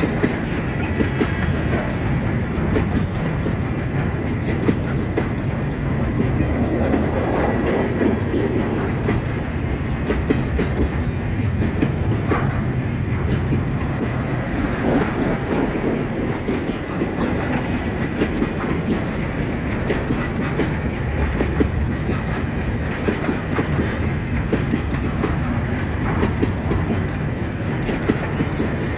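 Loaded container wagons of a long freight train rolling past steadily, their wheels clicking over the rail joints with a continuous rumble and rattle.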